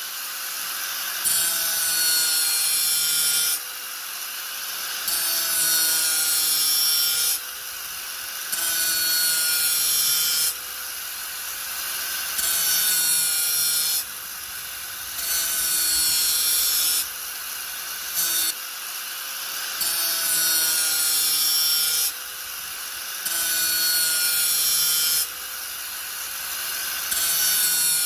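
Angle grinder running steadily, its disc pressed into the workpiece in repeated grinding passes about every three and a half seconds, each pass a loud hiss that drops back to the lighter spinning sound between passes.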